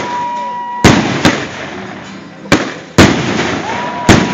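Fireworks rockets going off: about six sharp bangs at irregular intervals of roughly half a second to a second, each trailing off in an echo.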